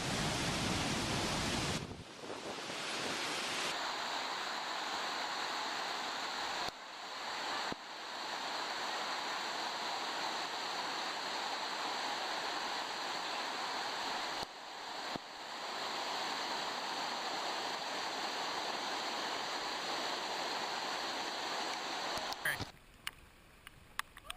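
Steady rush of fast-flowing water, heard across several shots with abrupt cuts between them. Near the end it drops away to a much quieter scene with a few sharp knocks.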